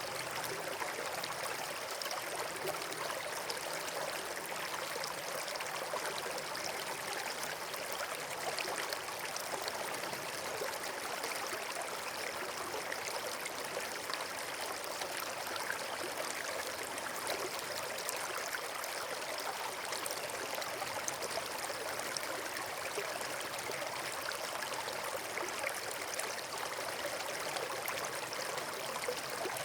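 Steady rushing of running water, like a stream or small waterfall, an even, unbroken wash of sound.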